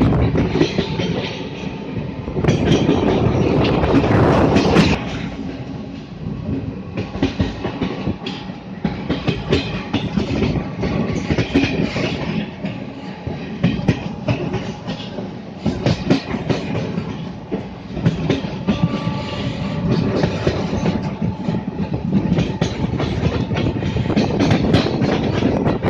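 Train running on the rails, its wheels clattering over the rail joints in an uneven clickety-clack. The noise is louder for the first few seconds and drops about five seconds in.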